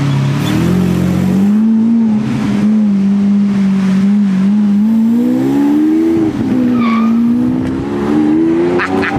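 Car engine under acceleration, its note climbing steadily, dipping sharply about six seconds in, then climbing again.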